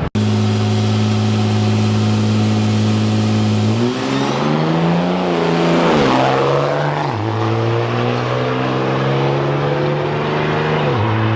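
Diesel drag trucks' engines running at steadily held revs with a faint high whine above; about four seconds in the pitch rises and swings up and down, then settles steady again and drops near the end.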